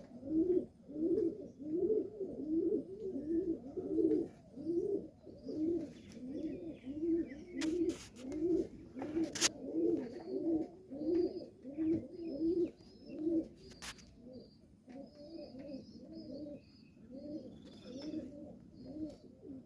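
Domestic pigeons cooing over and over, about two coos a second, with faint high chirps of small birds joining about halfway through and a few sharp clicks.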